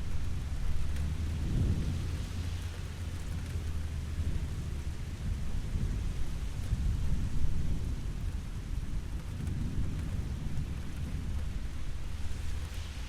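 Steady rain with a low, continuous rumble of thunder beneath it.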